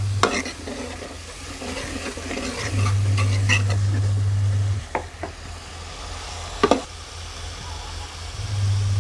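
Onion-garlic masala sizzling in a steel karahi as a steel ladle stirs it, with a few sharp knocks of the ladle against the pan. A low steady hum comes and goes.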